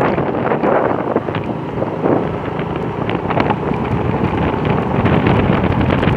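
Loud, gusty wind buffeting the microphone, with a low steady engine hum underneath.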